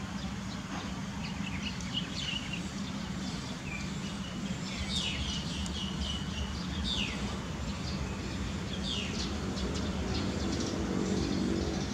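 Birds calling: short, quick chirps that fall in pitch, repeated every second or two over a steady low rumble.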